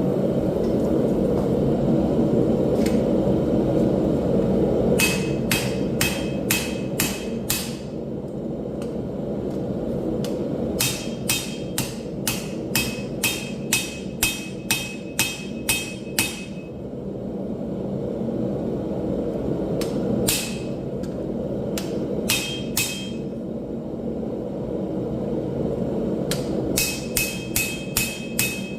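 Hand hammer striking steel on an anvil while forging railroad scrap into a chopper: runs of blows at about two a second, each with a bright ring, separated by pauses. A steady low rushing noise runs underneath.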